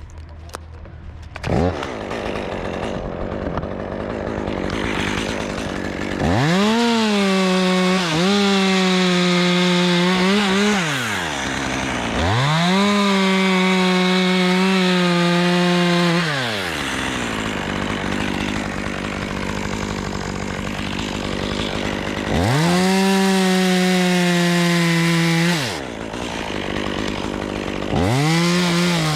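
Stihl chainsaw starting up about a second and a half in, then idling. It revs to full throttle and holds there three times, for several seconds each, dropping back to idle between. Near the end come quick blips of the throttle.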